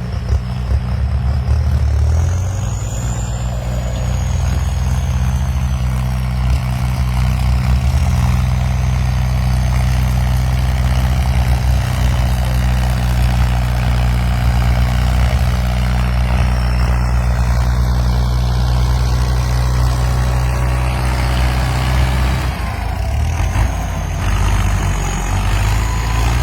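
Farm tractor's diesel engine running steadily with a deep, even drone. It eases off briefly about three-quarters of the way through, then picks up again.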